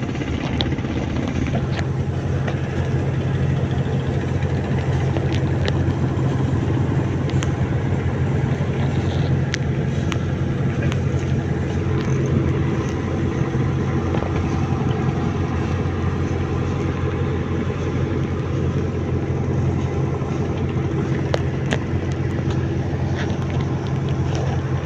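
An engine running steadily at a constant speed, with a few faint ticks over it.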